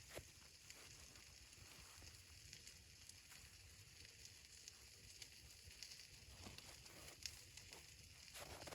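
Near silence, with faint scattered ticks and crackles over a low hiss.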